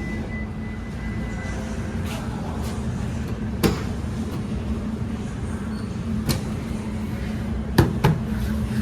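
Ford Ranger Raptor's 3.0-litre twin-turbo petrol V6 idling steadily, a low even hum, with four sharp clicks over it in the second half. A thin high tone stops about a second and a half in.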